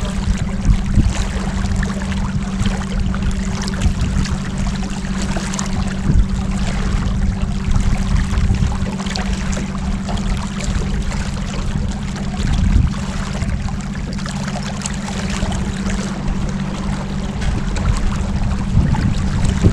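Motorboat engine running steadily under way, a constant hum over the rush of water along the hull.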